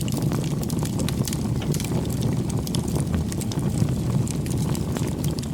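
Wood bonfire burning, with a steady low rumble of flame and frequent small crackles and pops.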